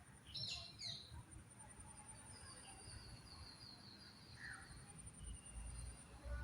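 Small birds chirping and calling: a few sharp chirps about half a second in, then a fast run of repeated high notes lasting a couple of seconds.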